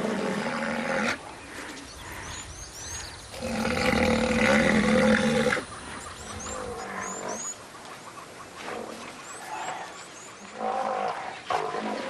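Big cat growling in about five rough bouts, the longest and loudest in the middle, with faint bird chirps above it.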